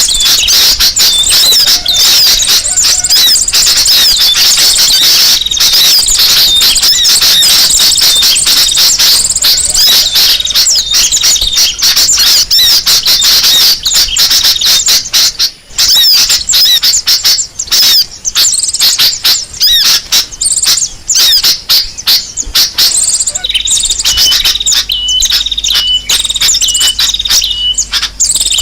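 Bird-lure recording of many small birds twittering and chirping at once, a loud, dense, clamorous chorus. Near the end a short single note starts repeating at an even pace, a little over once a second, over the chorus.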